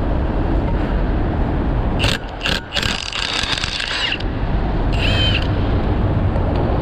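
Tool work on an overturned semi truck's driveshaft over a steady low engine rumble: two sharp metallic clicks about two seconds in, a harsh burst lasting about a second just after, and a brief squeal near five seconds.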